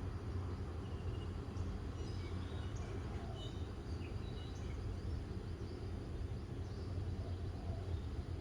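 Morning outdoor ambience: small birds chirping in short, scattered calls over a steady low rumble.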